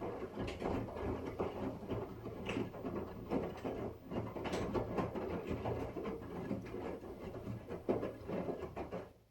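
Arçelik washing machine running a towel and white wash: the drum turning the load, with a low hum and many small irregular knocks and swishes. It cuts off abruptly near the end.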